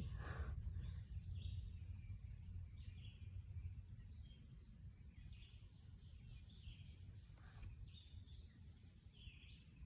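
Faint, scattered short bird calls and chirps over a steady low rumble of outdoor background noise.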